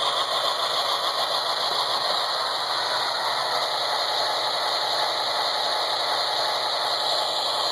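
Model train locomotive's sound module playing a steady engine idle through its small onboard speaker, thin and rattly with no low end.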